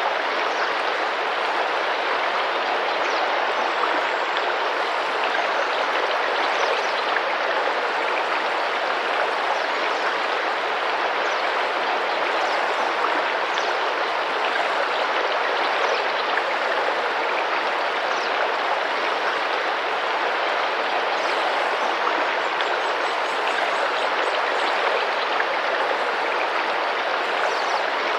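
Tropical rainforest river running over rocks: a steady, even rush of flowing and splashing water.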